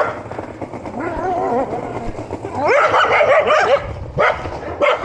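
Dog barking at a passing skateboarder: a few calls, then a rapid volley of barks a little past halfway, with more barks near the end.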